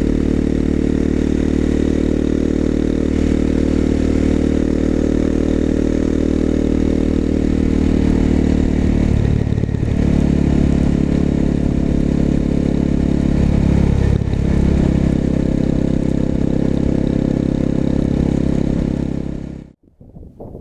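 Exhaust of a 250 cc single-cylinder four-stroke motorcycle with an aftermarket muffler, running steadily under way. The engine note breaks and changes pitch briefly about nine seconds in and again around fourteen seconds, and the sound cuts off abruptly near the end.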